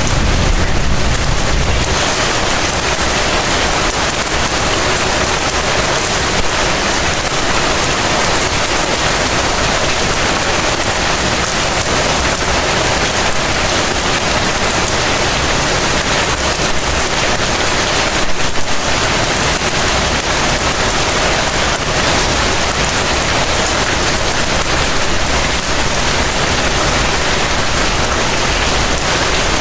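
Heavy rain falling steadily: a dense, even hiss of rainfall that does not let up.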